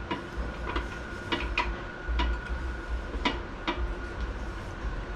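Irregular light metallic clicks and clinks as steel automatic-transmission parts (drums, gears, clutch pieces) are handled and fitted together.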